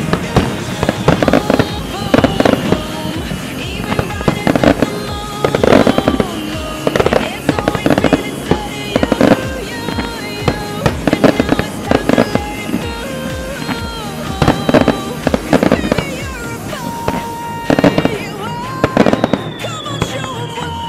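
Fireworks going off in rapid volleys of loud bangs and crackles, clusters of explosions every second or so, with a music track playing underneath. The bursts thin out near the end.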